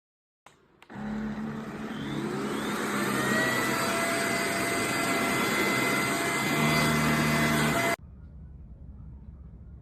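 Xiaomi Mijia handheld dust-mite mattress vacuum cleaner switched on: a click, then its motor spins up with a rising whine and runs steadily with a high hum, cutting off abruptly about eight seconds in.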